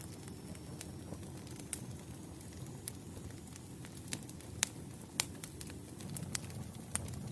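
Wood campfire burning: a steady low rumble of flames with sharp, irregular crackles and pops from the burning logs, the loudest two a little past halfway.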